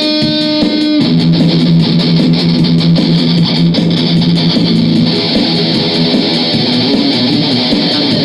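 Guitar riffing: a held, ringing note gives way about a second in to denser strummed playing over a low sustained note.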